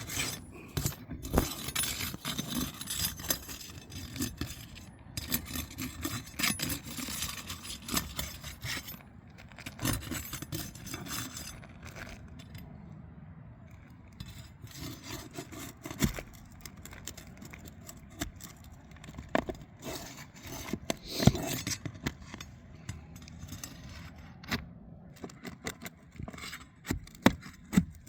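Hand tool scraping and prying at asphalt roof shingles, with scattered sharp clicks and knocks, as the shingles are worked loose for a repair attempt.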